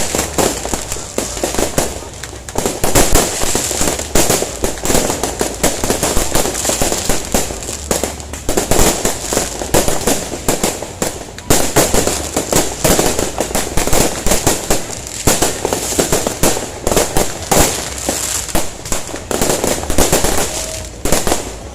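New Year's fireworks going off in a dense, continuous barrage of bangs and crackles, with a few brief lulls.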